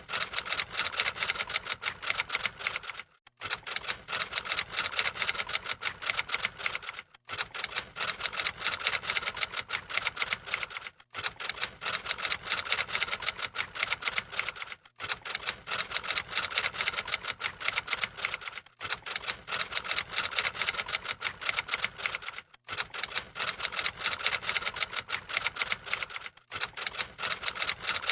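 Rapid typewriter key clicking, going on steadily in short runs that break off briefly about every four seconds, like a looped typing sound effect.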